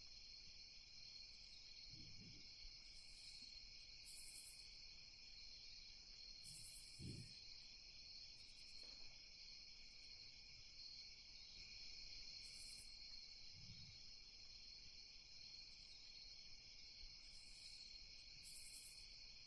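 Faint night ambience of crickets chirring steadily, with short, higher-pitched insect buzzes breaking in every few seconds.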